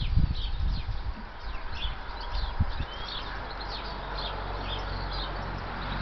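Birds chirping repeatedly in short, quick calls, with a few low thumps near the start and one sharp knock about midway through. A steady low rumble comes in during the second half.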